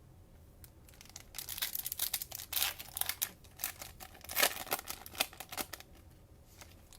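Plastic cellophane wrapper of a Mosaic basketball cello pack being torn open and crinkled: a run of sharp crackles lasting about five seconds, loudest a little past the middle.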